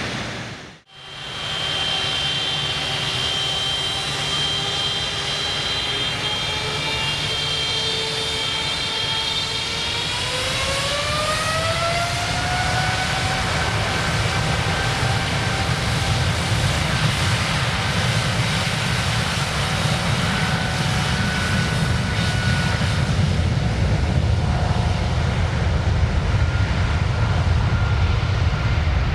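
Jet airliner engines running, with a steady roar and high whining tones. The whine rises in pitch about ten seconds in, and the sound slowly grows louder after that. There is a brief dropout about a second in.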